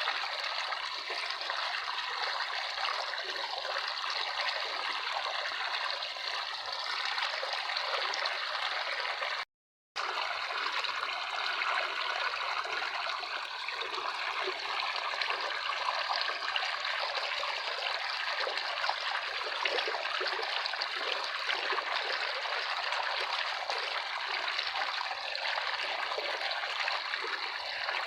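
Water running steadily in a stream. It cuts out to complete silence for about half a second around a third of the way in, then resumes.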